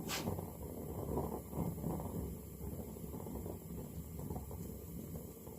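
Gas burner flame heating the hot tube of a Reid hit-and-miss engine, burning with a low, fluttering rumble; a brief click right at the start.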